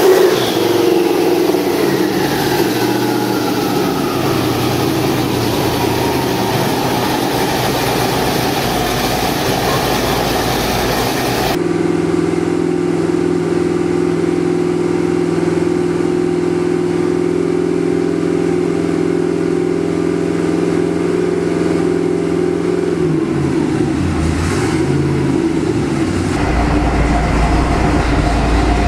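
Twin-turbo 427 small-block Chevy V8 running on an engine dyno, settling into a smooth idle. A high whine falls in pitch over the first few seconds. About halfway the sound changes abruptly to a steady idle, and it deepens near the end.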